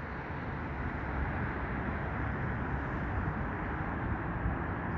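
Steady low rumble of vehicles, an even noise with no horn or distinct hits.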